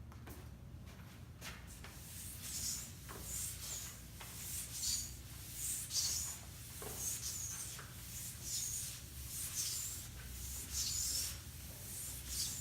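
Writing strokes, a pen scratching in short strokes about once a second from about two seconds in, over a low steady hum.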